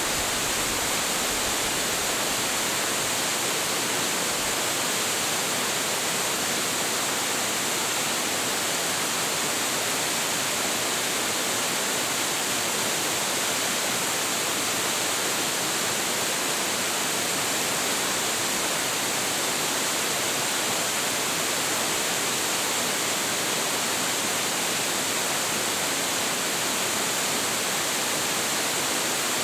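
Large waterfall, a 25.7 m high drop with plentiful water, falling steadily: a constant, unbroken rush of water with no changes.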